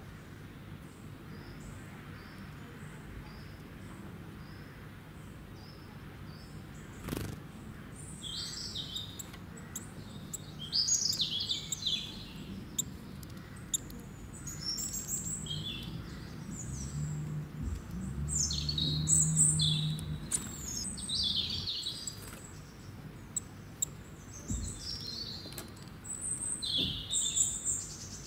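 Birds chirping in the background: a faint high call repeating about once a second, then from about eight seconds in a run of varied short high chirps. A single click sounds about seven seconds in.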